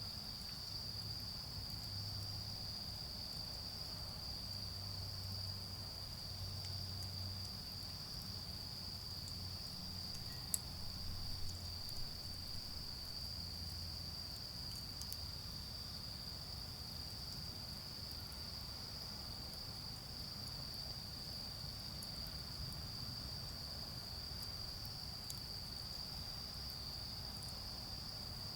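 Autumn insects calling in one steady, unbroken high trill. Faint, sharp crackles come now and then from the charcoal fire, over a low rumble of distant car traffic.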